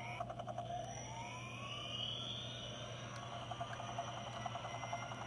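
Toy helicopter's electronic siren sound effect playing from its small speaker: a tone that glides slowly upward over the first two seconds or so, then holds.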